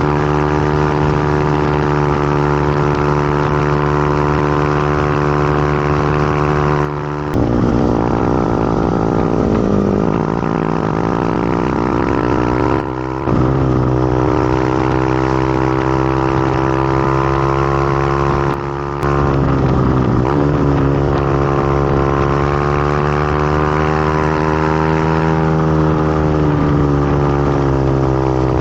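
Motorcycle engine running steadily under way. Three times, about seven, thirteen and nineteen seconds in, the sound briefly drops, then the pitch sags and climbs back up.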